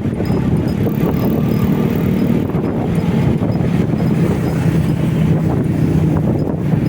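Motorcycle on the move: the engine running steadily under a constant rush of wind over the microphone.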